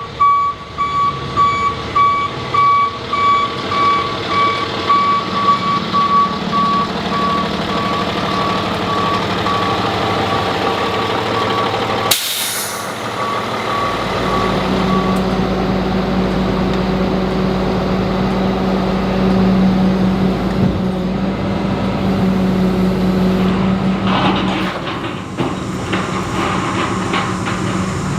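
Flatbed tow truck's reversing alarm beeping steadily over its running engine. About twelve seconds in the beeping stops at a cut and a steady low truck-engine drone takes over.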